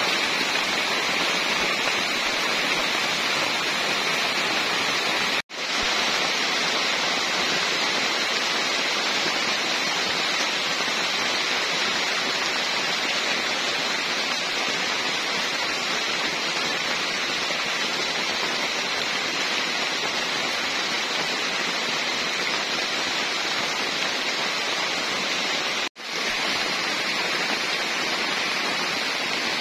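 Heavy rain falling steadily on dense tropical vegetation and wet ground, an even hiss. It cuts out for an instant twice, about five seconds in and near the end.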